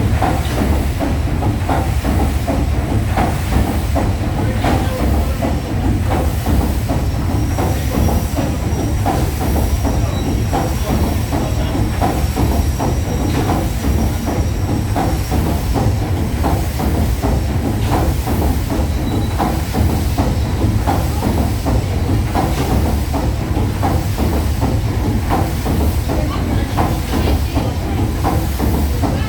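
Paddle steamer Waverley's three-cylinder triple-expansion steam engine running steadily, with a rhythmic clanking beat over a hiss of steam.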